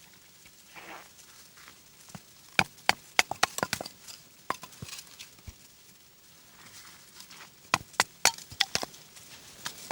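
Wood cracking and snapping in two quick clusters of sharp cracks, the first about two and a half seconds in and the second near the end.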